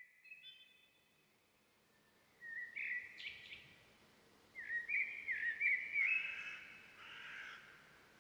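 Faint birdsong: a short group of chirps about two and a half seconds in, then a longer run of chirping notes from about four and a half to six and a half seconds.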